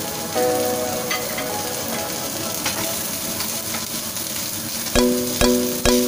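Chicken skewers sizzling on a hot ridged grill pan, a steady frying hiss. Background music plays throughout, and about five seconds in it turns into a steady beat of struck notes, about two a second.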